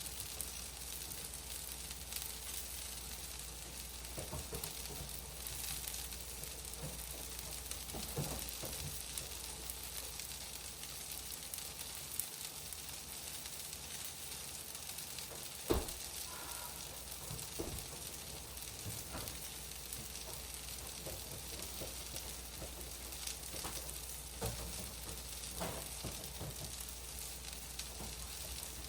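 Zucchini fritter batter sizzling in olive oil on a griddle: a steady frying hiss with scattered small pops and one sharper click about halfway through.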